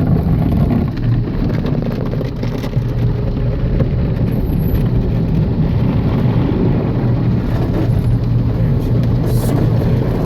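Steady low rumble and rushing noise of an automatic car wash, heard from inside the car's cabin as it passes through.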